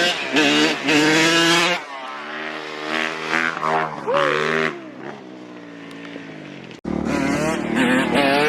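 Dirt bike engines revving, the pitch climbing and dropping repeatedly as the throttle is opened and closed and gears change. Near the end the sound cuts abruptly to another engine running at a steadier pitch.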